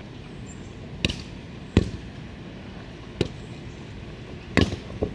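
A volleyball being struck by hands and forearms: five sharp smacks at uneven intervals, the last two close together near the end.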